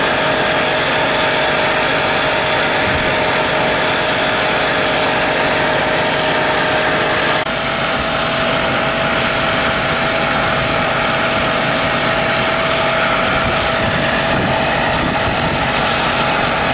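Steady mechanical running noise with a constant hum; it drops slightly and changes character at an abrupt break about seven seconds in.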